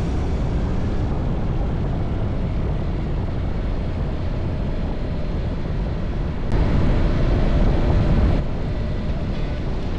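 Riding noise from a Honda NC750X DCT on the move: a steady low rumble of wind and engine, louder for about two seconds past the middle.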